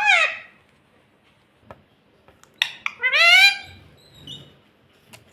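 Ring-necked parrot calling: a harmonic call ending just at the start, then, about three seconds in, a louder call that rises in pitch, followed by a short high squeak. A few sharp clicks fall between the calls.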